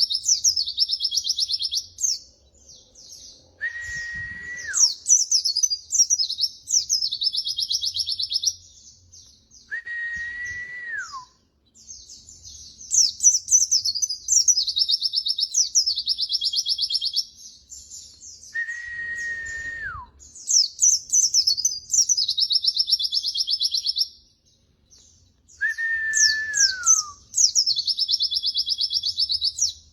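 Songbird tutor recording: bursts of high, rapid twittering and trilled song, broken four times by a lower clear whistle that holds its pitch for about a second and then drops away.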